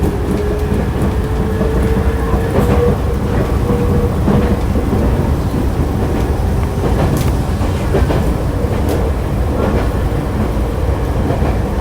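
Interior running sound of a Nankai 2000-series electric train: a motor whine rising in pitch as it picks up speed, fading after about three seconds into a steady rumble of wheels on rail with scattered rail-joint clicks.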